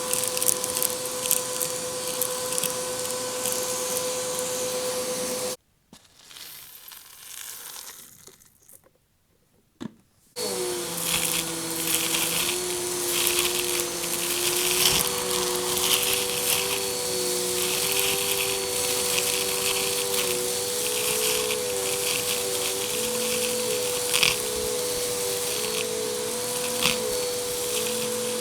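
Vacuum cleaner running and sucking up small hard debris that rattles and crackles through it. It cuts off abruptly about five seconds in, a few seconds stay nearly quiet, and then a vacuum runs again, its motor pitch wavering slightly under the rattle of debris.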